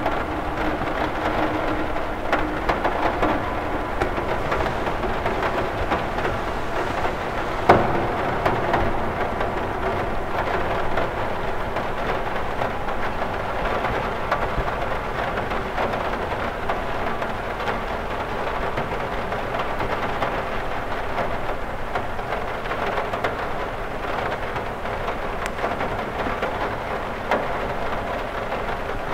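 Steady rain pattering on a window pane, a dense hiss full of small drop ticks, with one sharper knock about eight seconds in.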